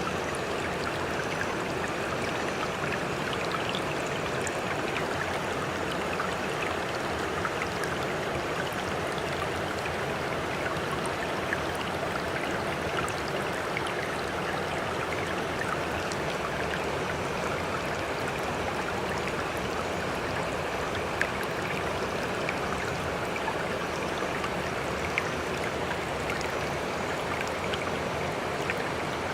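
Water rushing and splashing at an even, unchanging level, with no rise and fall of separate waves, and small drips and ticks scattered through it.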